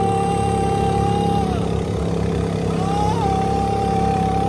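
Motor of a spinning donut ride car running with a steady hum. Two long, held high tones sound over it, one near the start and one in the second half.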